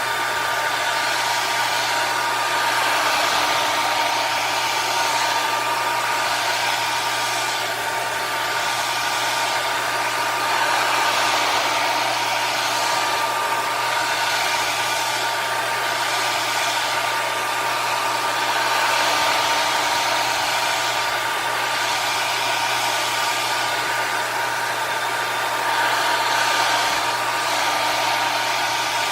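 Electric hot-air blower running steadily, drying freshly applied leather dye. It makes a steady whine, and its loudness swells gently every few seconds.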